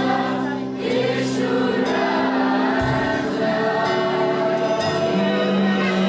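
Group of voices singing a worship song over instrumental accompaniment, with sustained chords and a bass line.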